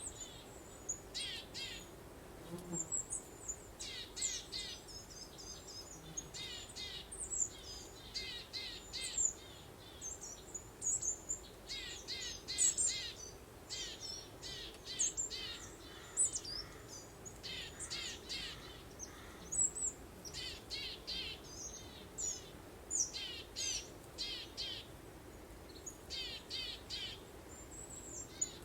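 Birdsong: bursts of rapid, high chirps repeating every second or two from several birds, over a soft steady rush of breeze.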